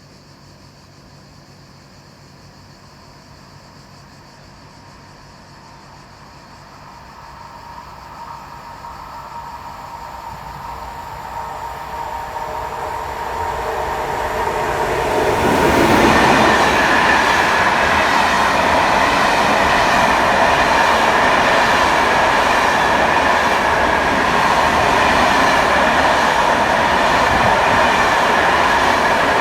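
A train approaching and passing through a station, its rail and wheel noise growing steadily louder for about fifteen seconds, then a loud, steady rush of wheels on track as the cars go by.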